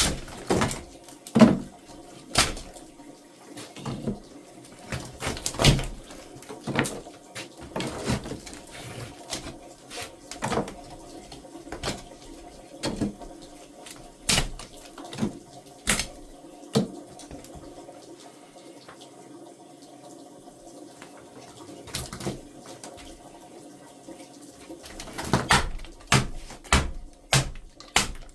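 Irregular sharp knocks and taps, roughly one a second, over a faint steady hum; they thin out for several seconds past the middle and come thicker again near the end.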